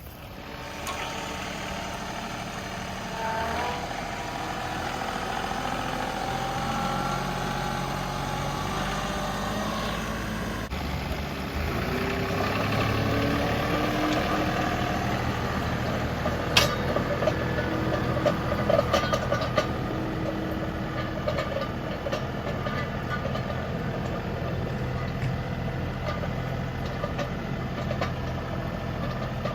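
John Deere 2038R compact tractor's diesel engine running under work, its pitch rising and falling as it is throttled up and down. A short run of sharp clicks and rattles comes about halfway through.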